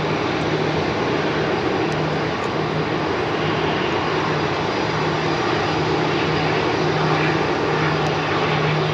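Airbus A340-300's jet engines running, a steady rushing noise with a faint low hum.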